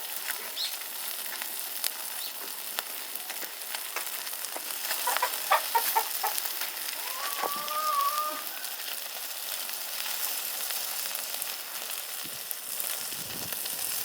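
Meat sizzling and crackling as it grills over a wood fire, a steady spitting hiss. A chicken clucks in short notes about five seconds in, followed by a longer call.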